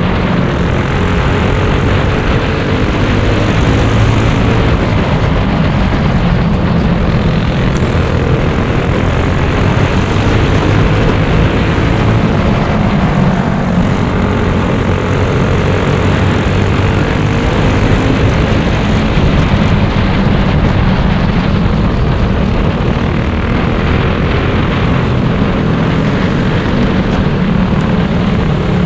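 Small racing engines running laps on a dirt track, their pitch rising and falling gently as they go round.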